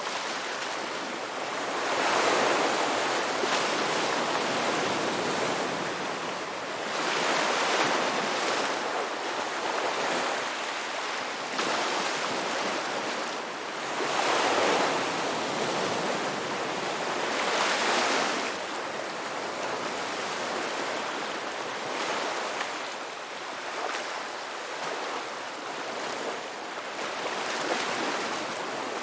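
Ocean waves breaking and washing ashore, the surf swelling and fading in long surges every few seconds.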